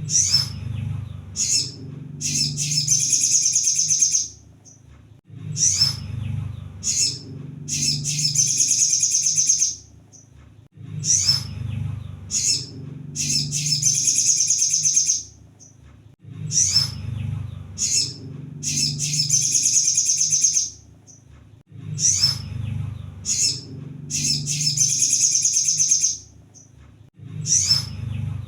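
Sunbird song: a few short high chirps, then a rapid high twittering phrase about two seconds long, repeated about every five and a half seconds as in a looped training recording.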